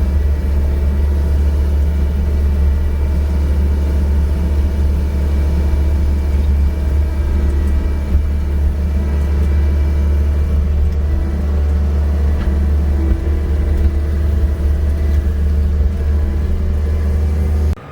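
John Deere 330G skid steer loader's diesel engine running steadily under load while pushing snow with its blade, a loud, even, deep drone that cuts off suddenly near the end.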